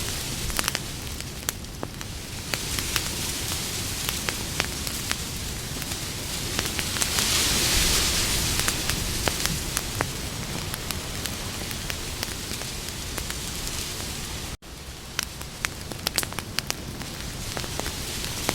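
Campfire burning: steady hiss of the flames with many sharp crackles and pops from the wood. The sound drops out for an instant about three-quarters of the way through.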